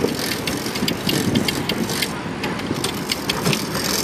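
Riding noise of a bicycle on a city street: a steady rush of road and wind noise with many quick, irregular clicks and rattles.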